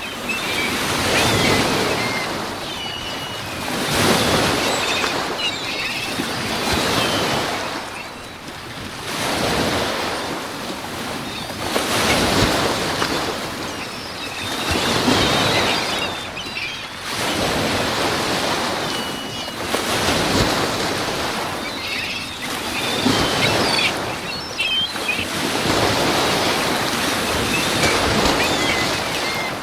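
Lake Michigan waves breaking in high wind, the surf swelling and falling back every three or four seconds, with wind noise.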